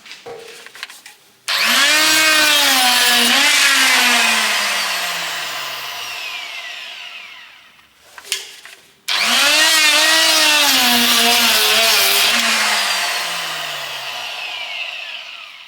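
Power tool with a deburring bit running against the steel tube holes of a traction engine boiler, in two long runs. Each starts suddenly and sinks steadily in pitch over several seconds, with a hissy cutting noise above the motor.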